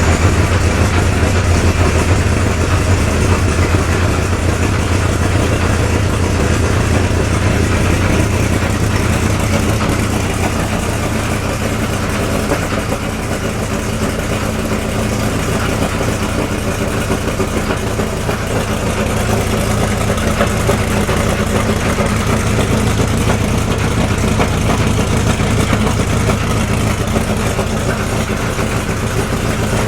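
Brabham BT62's 5.4-litre V8 idling steadily with a deep, even note. The low rumble softens about ten seconds in, and the engine keeps running at idle.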